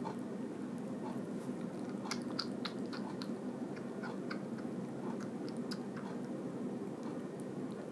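Two-month-old kitten suckling milk from a baby bottle: small, irregular wet smacking clicks of its mouth on the nipple, busiest a couple of seconds in.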